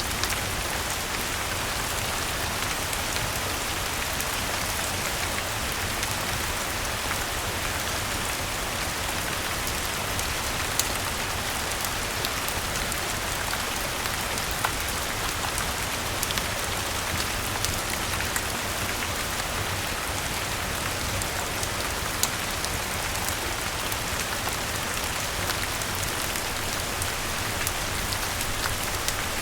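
Steady rain falling, an even hiss with scattered sharp ticks and pops.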